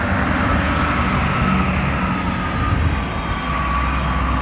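Large lorry's diesel engine running as it drives past, a steady low rumble with a thin whine that drifts slowly down in pitch.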